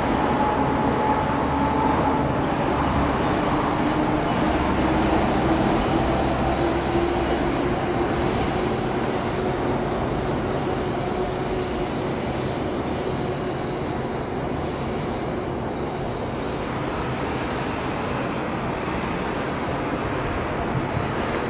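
Tokaido Shinkansen 300 series train rolling past at low speed, a steady running noise with a whine over it, easing a little in loudness over the second half.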